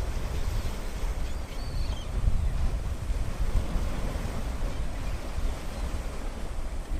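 Wind buffeting the microphone in steady gusts, over the continuous wash of sea surf.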